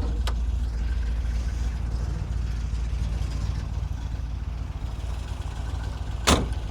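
1963 Corvette's 327 cubic-inch, 340 hp solid-lifter V8 idling steadily, a low, even rumble. A sharp click comes near the end.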